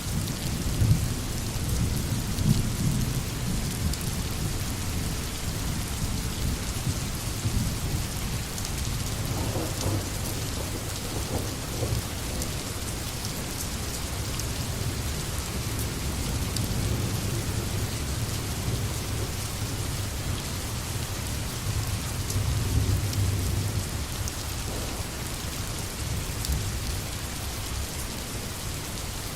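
Steady rain falling in a forest, with a low rumble underneath that swells and fades a couple of times.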